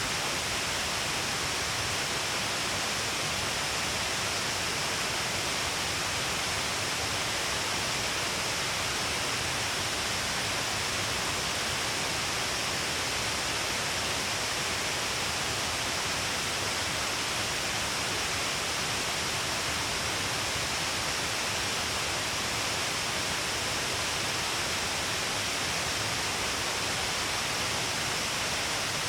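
Large waterfall spilling along a cliff face, a steady, unbroken rush of falling water and spray with a strong hiss.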